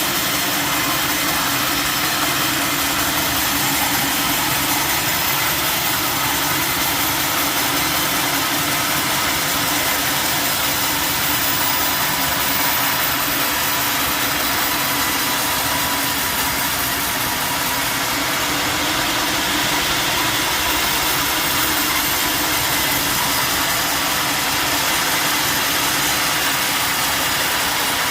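Sawmill machinery running steadily: a constant engine drone with a few steady tones and no pauses.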